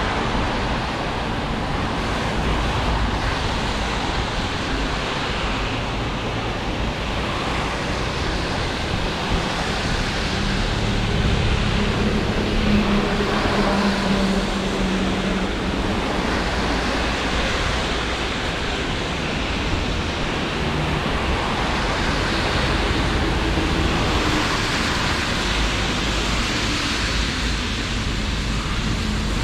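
Steady rain falling, an even hiss, with road traffic; a low hum from a passing vehicle rises about halfway through.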